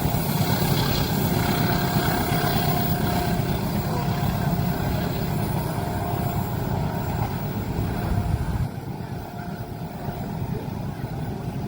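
Heavy, steady low rumble of a passing train, which drops off sharply about eight and a half seconds in.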